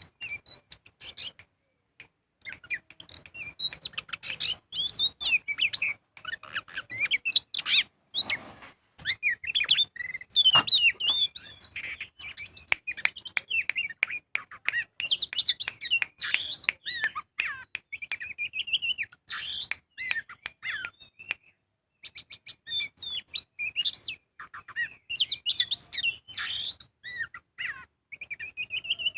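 Oriental magpie-robin (kacer) in full song: a rapid, varied stream of whistled and chattering notes, with a short pause about two-thirds of the way through.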